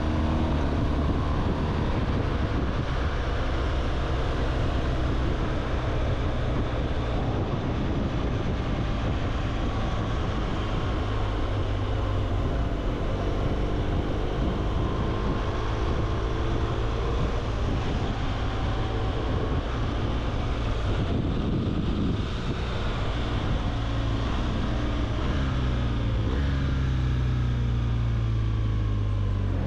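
BMW R 1200 GS boxer-twin motorcycle engine running under way, its pitch rising and falling with the throttle and dropping near the end, over a steady rush of wind noise.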